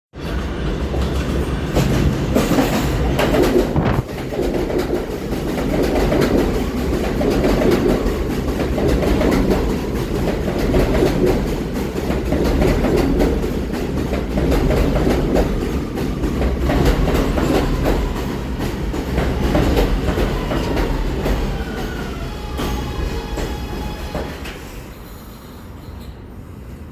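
R211A subway train pulling into a station: a steady rumble with wheels clattering over the rail joints, then a falling electric whine as it brakes, dying down as the train comes to a stop near the end.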